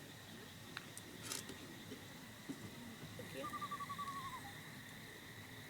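Faint night ambience: a steady thin insect drone, a couple of small clicks, and past the middle one short, rapid trill that falls in pitch, the call of a small animal.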